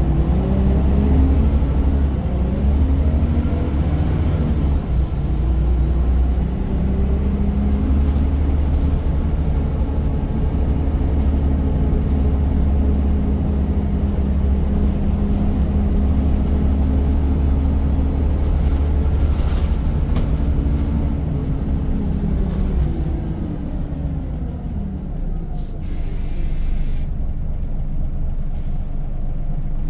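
Scania N94 single-decker bus engine pulling under way with a heavy low rumble, its pitch rising and falling as it accelerates and eases off, and dropping away as the bus slows near the end. A brief hiss comes near the end.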